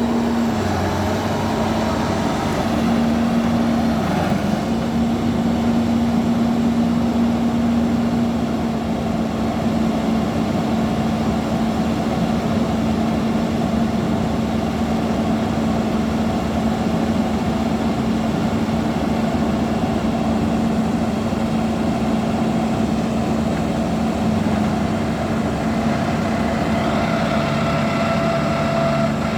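Bulldozer's diesel engine running steadily at a constant note, with a brief dip in pitch about one and four seconds in.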